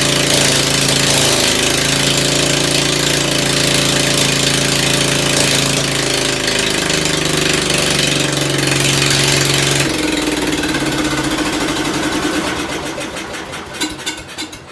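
Ford engine running steadily, then about ten seconds in it loses speed, its firing slowing to separate beats that fade out as it dies just before the end.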